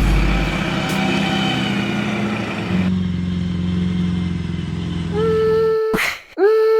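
Chevy Duramax diesel engine of a mud truck running steadily. Near the end a steady pitched tone comes in, breaks off briefly with a knock, and starts again.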